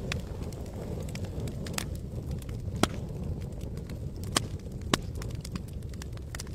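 Campfire crackling: scattered sharp pops of burning wood, four louder ones in the middle, over a steady low rumble.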